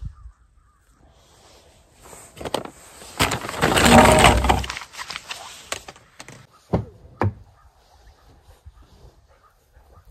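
Handling noise: a rough scraping and rattling for about three seconds, then two sharp knocks about half a second apart.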